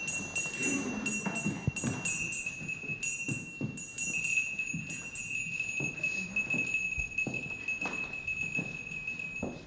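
Jingling bells over a steady high ringing tone that holds throughout, with scattered light knocks.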